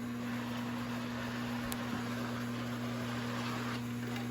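Steady low electrical hum with a faint hiss, and one faint tick a little under two seconds in.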